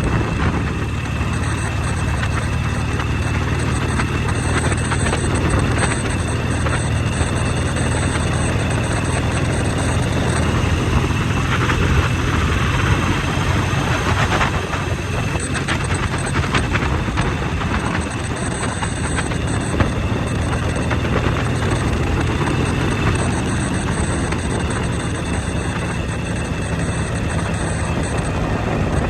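Motorcycle engine running steadily under way, a constant low hum with a rushing noise over it and no clear changes in pitch.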